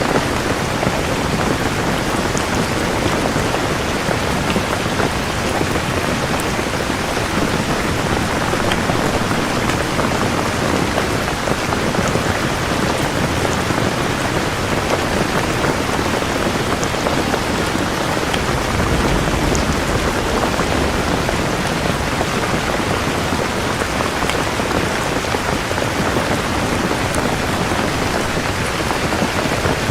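Steady heavy rain falling, an even hiss of drops on surfaces. Over the last third a low rumble of distant thunder builds underneath it.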